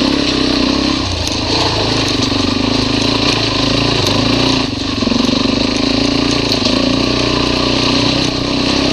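Motorcycle engine running steadily under load in first gear on a steep trail climb, with brief dips in the engine note about a second in, near the middle and near the end.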